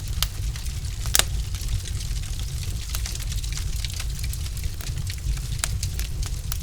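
Wood fire crackling in a fireplace: scattered sharp pops and snaps, one louder pop about a second in, over a steady low rumble.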